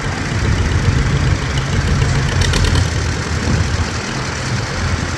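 Antique tractor engine running at a slow, steady idle as it drives past.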